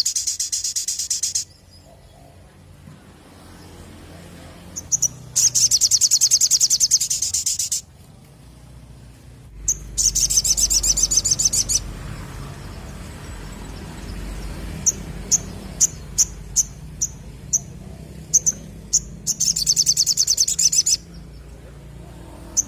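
Little spiderhunter (sogok ontong) singing in rapid, high-pitched trilled bursts of about two seconds each, four times, with a string of single sharp chips, about two a second, between the third and fourth bursts.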